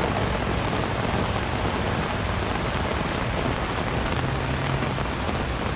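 Heavy rain falling steadily onto a lake surface and a waterlogged, puddled muddy bank: a downpour.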